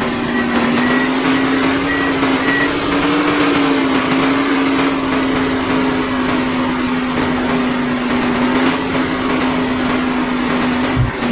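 A vehicle's motor running with a steady hum whose pitch rises slightly a few seconds in. A series of short, evenly spaced high beeps sounds during the first couple of seconds.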